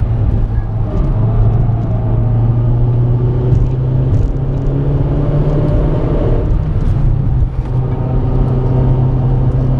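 Renault Clio RS 220's turbocharged four-cylinder engine running hard at steady speed, with road and tyre noise. The engine note shifts and briefly dips about three-quarters of the way through, as on a lift or gear change.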